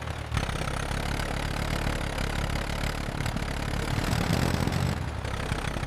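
Tractor engine running steadily, a low even rumble.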